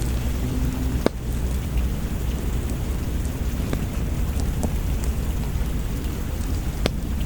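Steady rain over a deep, constant low rumble, with a handful of sharp pops from a crackling wood fire; the loudest pop comes about a second in.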